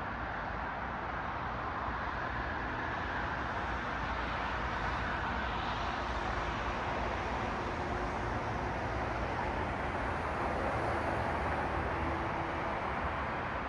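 Road traffic: cars passing on a city street, a continuous rush of tyre and engine noise that swells as vehicles go by, a little louder about five seconds in and again near the end.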